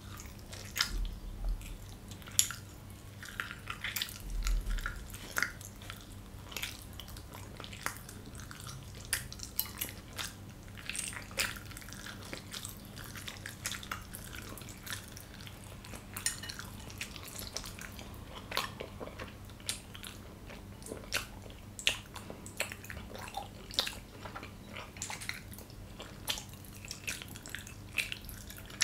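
Close-miked, open-mouthed chewing of soft gyoza dumplings: wet smacking and sticky clicks of lips, tongue and saliva, coming irregularly and close together, over a faint steady low hum.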